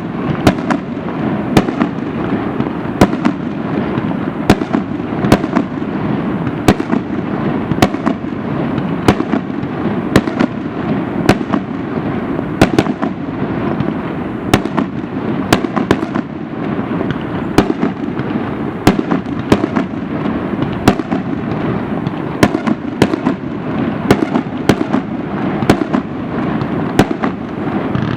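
Fireworks display in a dense barrage: sharp bangs of bursting shells in quick succession over a continuous rumble and crackle.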